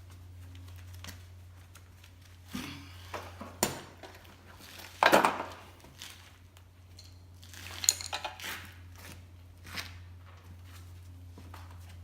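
Irregular clinks and clatter of metal tools and parts being handled, the loudest a longer scraping clatter about five seconds in, over a steady low hum.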